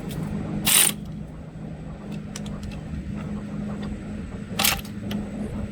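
Ratchet wrench turning bolts on the motorcycle's gearshift mechanism: two short rasping ratchet strokes, one about a second in and one near the end, a few light ticks between, over a steady low hum.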